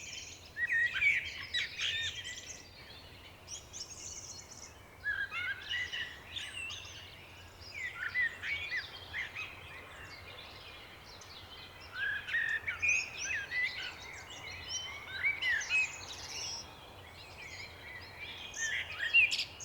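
Songbirds singing in bursts of quick, chirping phrases every few seconds, over a faint, steady low background.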